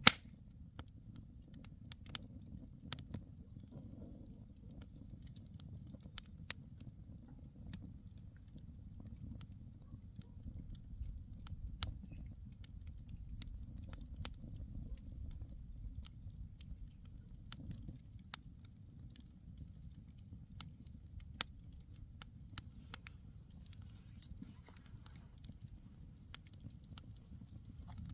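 Campfire burning: irregular sharp pops and crackles of burning wood over a steady low rumble.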